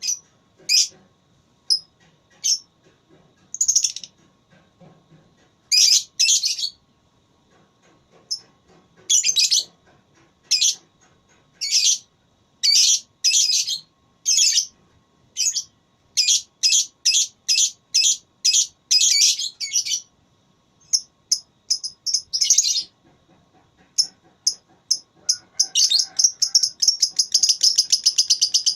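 Lovebird calling: short, shrill chirps at uneven intervals, some in quick runs, then near the end breaking into a fast, continuous rattling trill, the long 'ngekek' chatter.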